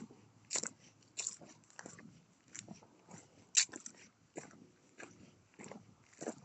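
Footsteps crunching on a gravel path at a steady walking pace, about one and a half steps a second, with one heavier step about halfway through.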